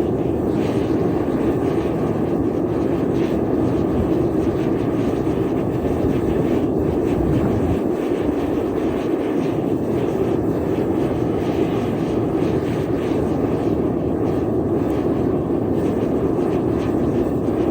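Gas-fired melting furnace burner running with a steady, even roar.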